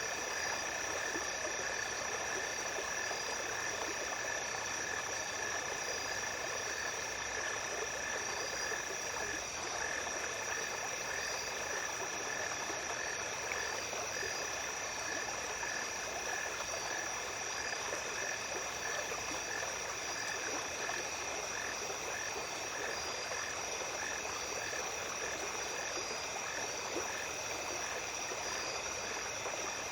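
Small stream flowing steadily under a night chorus: one high, steady insect trill throughout, and a lower call that turns into a regular pulsing about a third of the way in.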